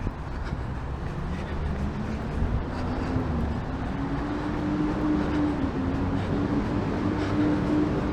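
A nearby vehicle's engine or motor pulling away, its low rumble joined by a pitched whine that rises over a few seconds and then holds steady.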